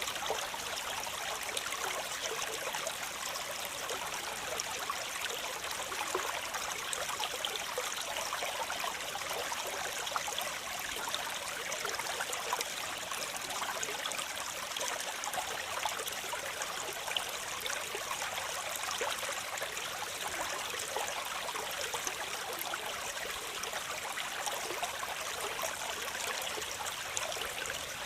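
Waterfall: water falling and splashing in a steady, unchanging rush, mostly hiss and splash with little low rumble.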